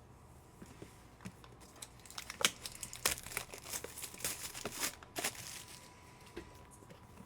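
Sports-card packaging, a foil pack or plastic wrapper, being torn open and crinkled: a dense run of crackling rustles through the middle few seconds, with lighter handling clicks on either side.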